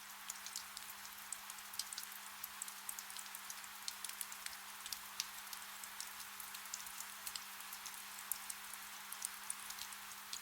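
Soft, steady rain: an even hiss dotted with many small, sharp drop ticks, over a faint low hum.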